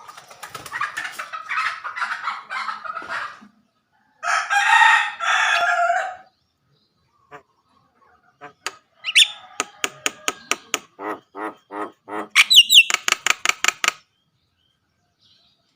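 A captive jalak (starling or myna) singing a varied song: chattering notes at first, then a loud harsh rasping stretch, then a rapid run of sharp clicks and pulsed notes with a brief high whistle near the end, after which it stops.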